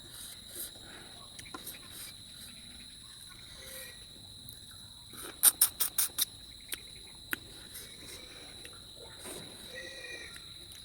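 Steady high insect chirring throughout. About halfway through comes a quick run of five or six sharp clicks, the loudest thing here, with soft eating noises scattered around it.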